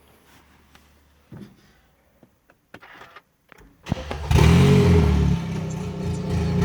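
Hyundai ix35 engine with no exhaust fitted, started about four seconds in: a short burst as it catches, then it runs loud and raw. Before that, only a few faint clicks.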